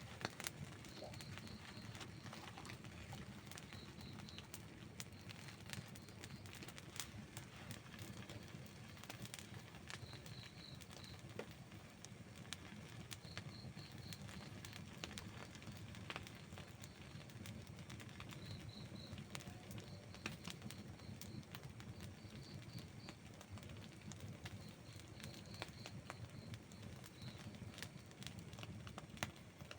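Outdoor wood campfire burning, crackling and popping with many small sharp snaps over a soft low rumble. A high chirping comes in short runs every few seconds.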